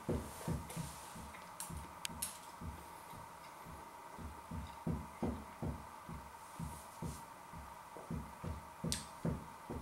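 A person chewing a bite of crispy filo pastry roll: steady rhythmic chewing, about three chews a second, with a few sharp crackles from the crisp pastry.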